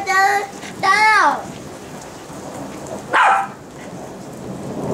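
Steady rain falling, with a low thunder rumble building near the end.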